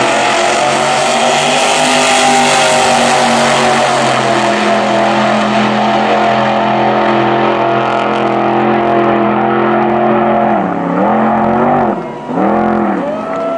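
Wheelstander drag car's engine running at high revs in one long, nearly steady note as the car makes its pass on its rear wheels. Near the end the revs dip and rise twice.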